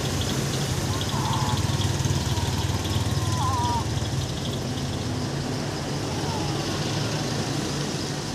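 A motor vehicle engine idling steadily, a low even hum.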